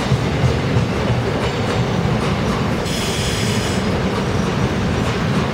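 Korail electric commuter train rolling past the platform, its wheels clicking over the rail joints with a steady rumble. A brief high squeal comes in about three seconds in.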